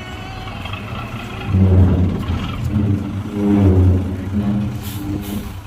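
Heavy diesel engine of the earthmoving machinery running and revving up, growing louder twice under load.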